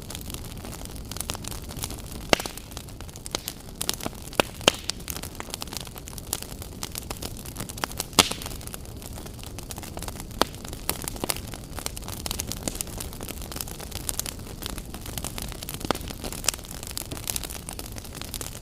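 Wood fire burning in a fireplace: a steady low hiss with constant irregular crackling and a few sharper, louder pops.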